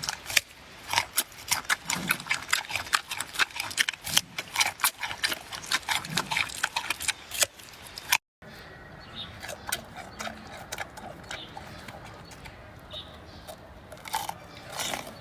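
Giant panda chewing bamboo: rapid crisp cracking and crunching. After a brief break about eight seconds in, the crunching goes on sparser and quieter.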